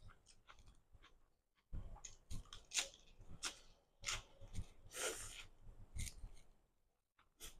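Close-miked crunching and chewing of a fresh lettuce-leaf wrap, a run of crisp crunches beginning about two seconds in, with one more crunch near the end.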